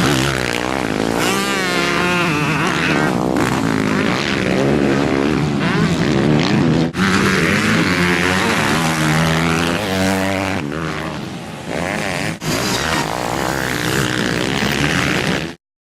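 Motocross dirt bike engines revving up and down as the bikes are ridden, the pitch rising and falling over and over, with abrupt breaks about 7 and 12 seconds in. The sound cuts off suddenly near the end.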